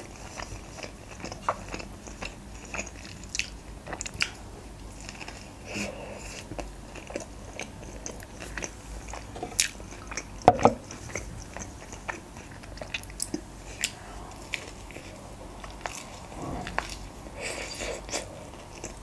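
Close-up mouth sounds of a person chewing a KFC Boxmaster tortilla wrap: scattered wet clicks and soft crunches. There is one sharper click about halfway through, and a new bite into the wrap near the end.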